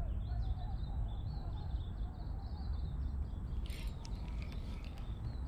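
Small birds chirping in quick repeated notes over a steady low wind rumble on the microphone, with a few short clicks near the end.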